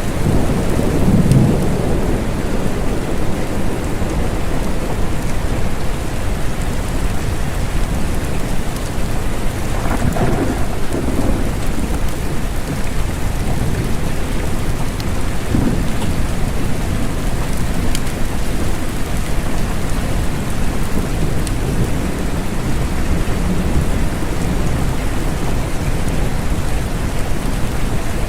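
Steady, dense rainfall with low rumbles of thunder, one about a second in and another about ten seconds in.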